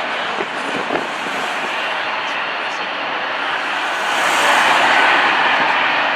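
Jet airliner engine noise, a steady rushing sound that swells about four seconds in.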